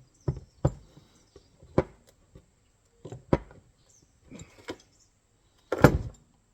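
Scattered sharp metallic clicks and knocks as a steel coil-spring foothold trap and a hand tool are handled, with the loudest clatter near the end.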